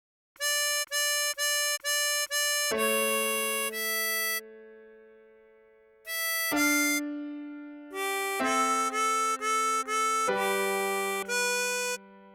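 Tremolo harmonica playing the melody of a pop song slowly: five short repeated notes, then longer held notes and chords. One chord fades out in the middle before the phrase resumes.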